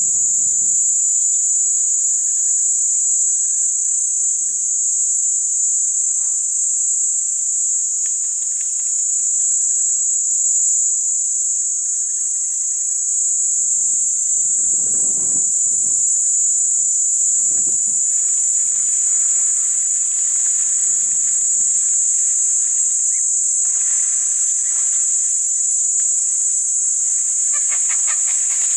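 A chorus of insects, such as crickets or cicadas, keeping up a steady, high-pitched buzzing. Now and then there are short low rumbles.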